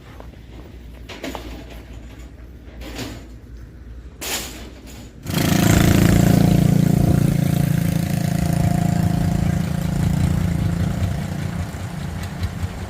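A few faint knocks, then about five seconds in an engine starts suddenly and runs steadily at idle with a low hum.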